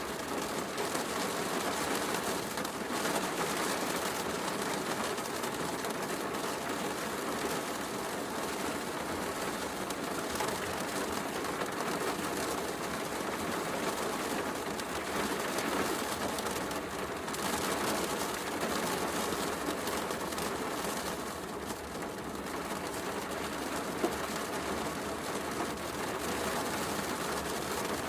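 Steady heavy rain, mixed with a fireplace crackling, and one sharper crack near the end.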